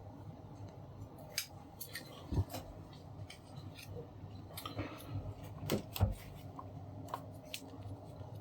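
Scissors cutting through a flat ribbon cable: a series of small snips and clicks, the two loudest about two and a half and six seconds in.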